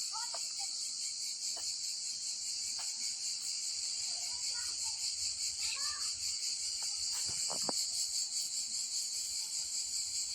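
Steady, high-pitched chorus of night insects such as crickets, with a few faint short chirps and a couple of clicks over it.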